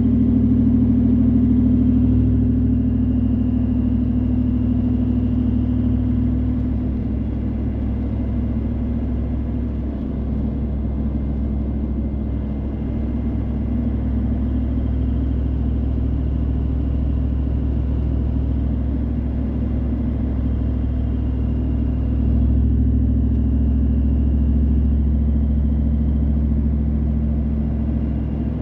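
Car being driven, heard from inside the cabin: a steady low rumble of engine and tyres on the road. An engine hum in it eases off about a quarter of the way in.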